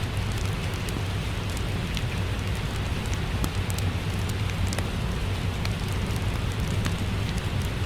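Ambient mix of steady rain with a crackling fireplace: an even hiss over a low rumble, scattered with many small sharp crackles and drips.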